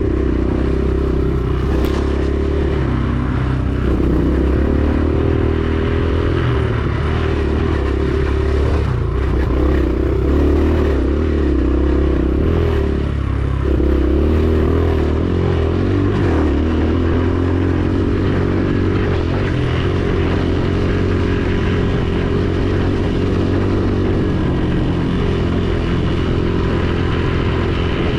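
Dirt bike engine running while riding, its pitch rising and falling a little with the throttle.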